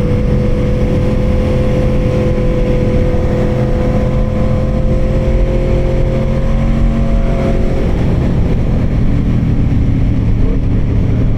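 V4 motorcycle engine pulling at a steady pitch that climbs slowly, heard from the rider's helmet. About eight seconds in the pitch drops and settles lower, as the throttle comes off or a gear changes.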